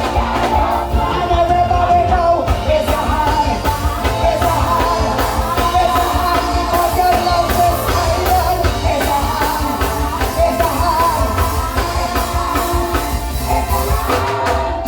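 Live soca music: a singer holding long notes over a band with a heavy, steady bass beat, played loud.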